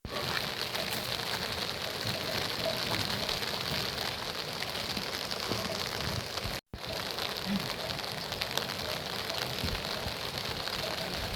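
Steady rain falling, an even hiss that drops out for an instant about two-thirds of the way through.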